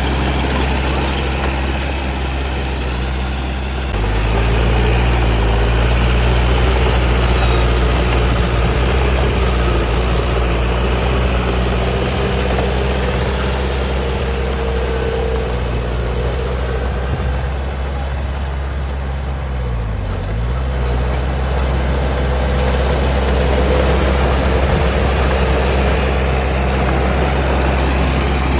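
Bulldozer's diesel engine running steadily. Its pitch steps up about four seconds in and sags briefly around twenty seconds before recovering, as the engine takes load.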